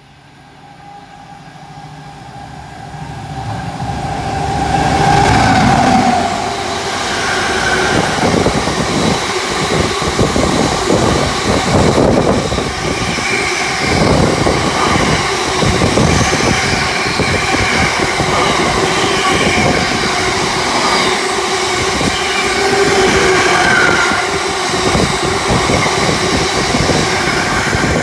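Freight train passing at speed. It builds up over the first five seconds as it approaches, then the long train of wagons rumbles and clatters past, with rapid repeated wheel knocks.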